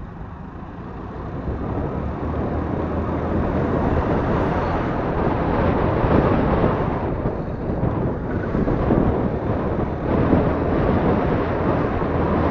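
Wind rushing over the microphone of a motorcycle on the move, with the engine running underneath.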